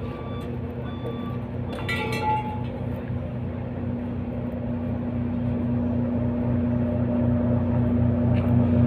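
The roller's engine running steadily with an even low pulsing drone, slowly getting louder. A brief clatter about two seconds in.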